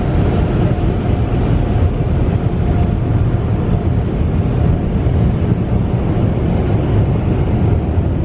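Automatic tunnel car wash running around a car, heard from inside the cabin: a loud, steady rush of the wash equipment against the body.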